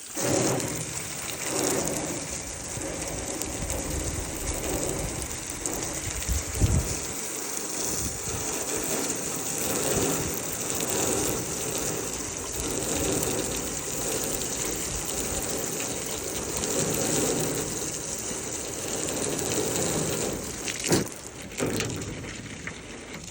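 Garden hose spraying water onto a car engine to put out a fuel-leak fire, a steady rushing splatter that starts abruptly and cuts off shortly before the end.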